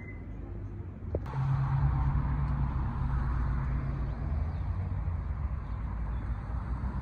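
A car driving, a steady low rumble of engine and road noise that begins abruptly about a second in.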